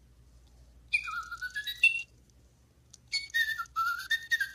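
Battery-operated toy bird switched on and chirping an electronic birdsong: two bursts of rising, stepped tweets, the first about a second in, the second from about three seconds in.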